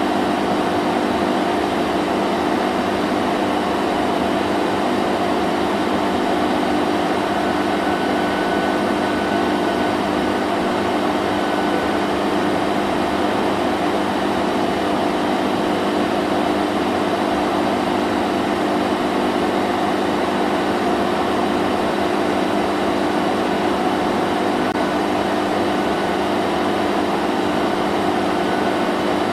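Vacuum cleaner running continuously: a steady motor hum over the rush of air, unchanging throughout.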